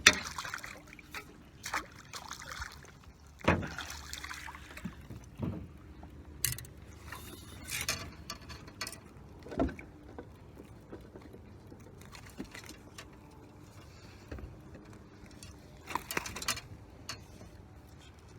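Scattered knocks and thumps with short rustling bursts from handling on a fishing boat, sharpest right at the start.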